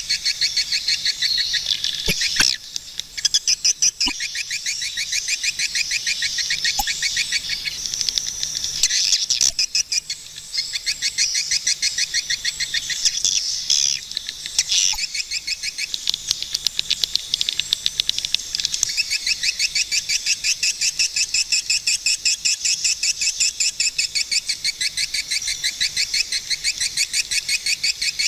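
Swiftlets calling: a steady stream of rapid, evenly repeated high chirps, several a second, with a couple of brief breaks.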